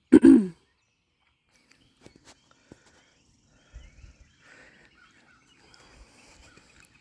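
A short pitched call falling in pitch right at the start, then faint outdoor sounds: a few light clicks and knocks, soft low thumps about four seconds in, and faint chirps.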